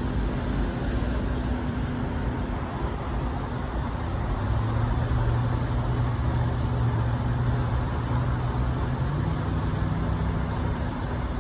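A machine running steadily with a constant noise. A low hum comes in about four seconds in and steps up in pitch a little past halfway.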